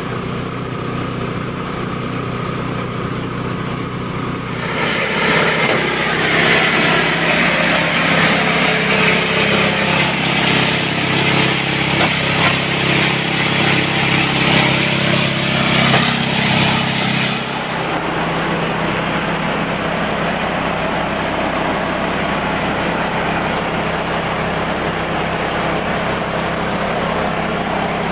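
Engine-driven grass chopper machine running steadily. From about five seconds in until about seventeen seconds it grows louder, with a harsh hissing noise over the engine, then it drops back to a steady run.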